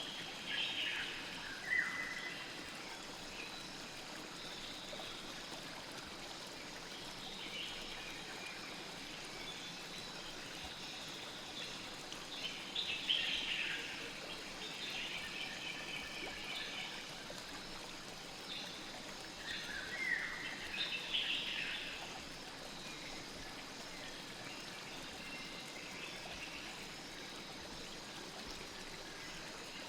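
A river flowing with a steady rush of water, while birds chirp in short clusters several times, most busily about halfway through.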